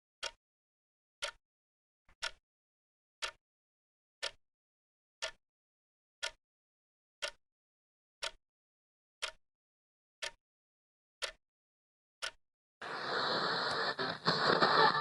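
Clock-tick sound effect: single sharp ticks, one a second, about a dozen in a row over dead silence. Near the end, loud music with electric guitar cuts in abruptly.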